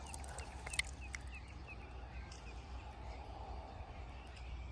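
Faint outdoor ambience: small birds chirping now and then over a steady low rumble, with a few light clicks about a second in.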